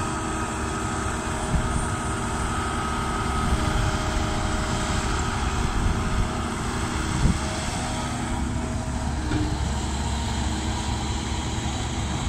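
Heavy diesel earthmoving machinery running steadily, the engine droning under load with a few small knocks, one sharper about seven seconds in.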